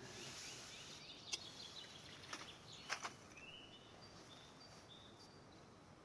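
Quiet outdoor ambience with faint bird chirps, a run of short high notes about halfway through, and a few light clicks.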